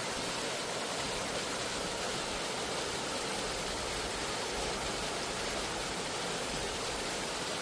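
Waterfall or cascading stream water rushing, a steady full hiss with no change.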